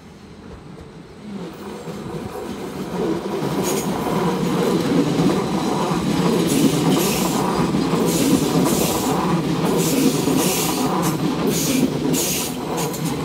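A bwegt regional electric multiple unit passes close by. Its running noise grows louder over the first few seconds and then holds steady, with a run of irregular wheel clacks over rail joints and points.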